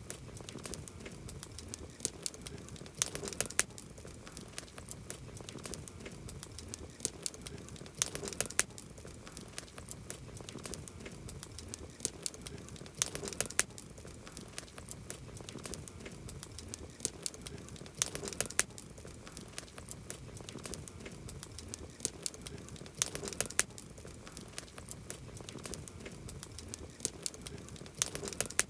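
Wood campfire burning: a steady low hiss with many sharp crackles and pops, and a louder cluster of pops about every five seconds.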